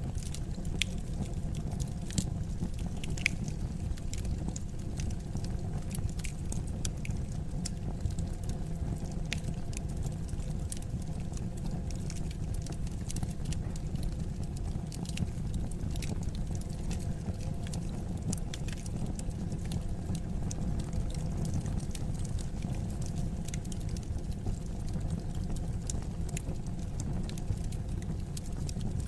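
Wood fire crackling: irregular sharp pops and snaps scattered over a steady low rumble of the burning fire.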